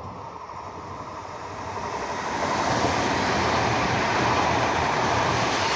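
Red Italo high-speed train running past a station platform. Its noise swells as it approaches over the first two and a half seconds, then holds as a steady loud rush of wheels on rails while the coaches go by.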